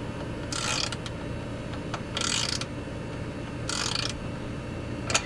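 Ratchet wrench clicking in three short strokes, about a second and a half apart, tightening a bolt of a go-kart engine's recoil pull starter.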